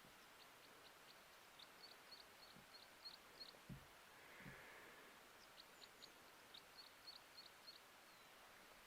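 Faint, high, quick chirps of a small bird in two runs, one in the first half and one after the middle, with two soft low thumps between them.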